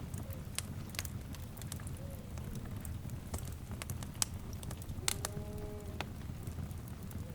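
Wood fire burning with a steady low rumble and scattered sharp crackles and pops. About five seconds in, a short pitched call lasts just under a second.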